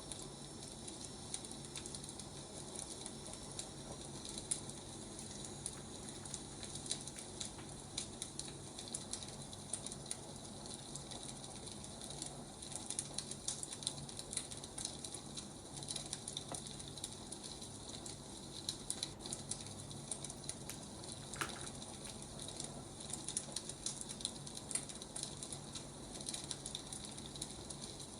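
Burning firewood crackling steadily, with frequent small sharp pops and snaps over a soft hiss.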